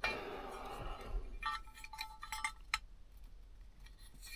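Rustling, then a quick run of light metallic clinks and taps about a second and a half in, with one more small clink near the end.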